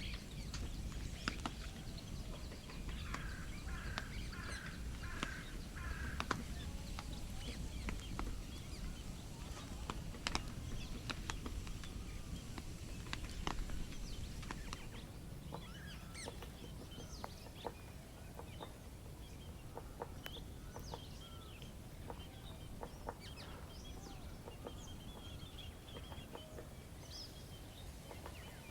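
Campfire crackling with scattered sharp pops over a steady low noise. A bird calls about five times in quick succession a few seconds in, and small high chirps come and go later.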